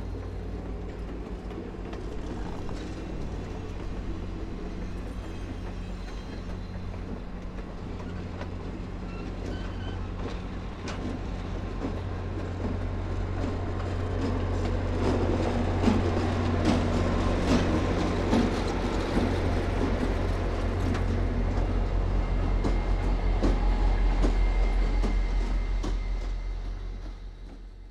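Passenger train rolling past, its wheels clicking over the rail joints as the cars go by. Then the engine drone of the trailing diesel locomotives, an FL9 in New Haven paint and an MBTA locomotive, grows louder as they pass and dies away near the end.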